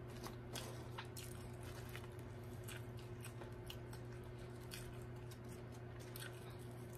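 Quiet, close-miked chewing of french fries, with many small sharp mouth clicks scattered throughout, over a steady low hum.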